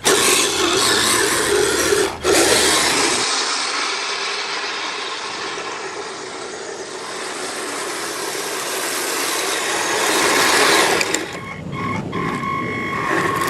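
Kyosho Blizzard SR radio-controlled snowcat driven at top speed: its two electric motors, gearing and crawler tracks make a loud, even mechanical whirr. It dips briefly about two seconds in, then goes quieter near the end as it slows.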